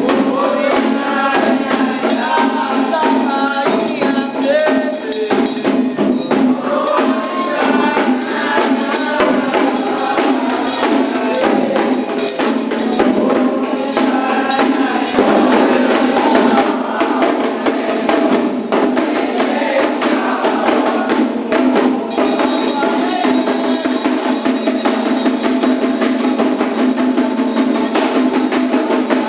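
Candomblé ritual music: group singing in call-and-response style over fast, dense percussion with a jingling shaker-like rattle and a struck metal bell. The singing is clearest in the first half, while the percussion keeps up a steady rhythm throughout.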